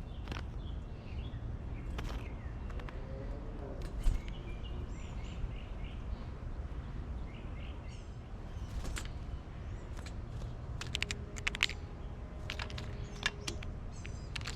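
Small birds chirping faintly in short calls over a steady low outdoor rumble, with scattered sharp taps and one louder tap about four seconds in.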